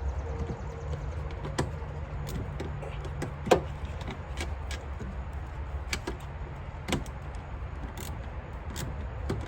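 Scattered small clicks and taps of hands and parts working a side-marker light into the car's body, the loudest about three and a half seconds in, over a steady low hum.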